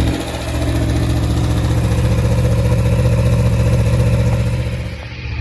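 Aprilia Tuono V4 1100 Factory's V4 engine running through an Akrapovic slip-on exhaust on its cold start after winter storage, steady and loud, with a brief drop in level just after the start and again near the end.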